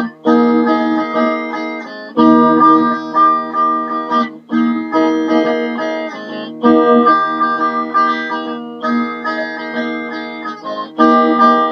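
Fender Roadhouse Stratocaster electric guitar playing chords, a new chord struck and left ringing about every two seconds.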